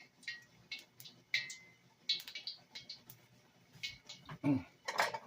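Scattered light clicks and small clatters at irregular intervals, with a brief denser rattle about two seconds in and again near the end, from kitchen items being handled.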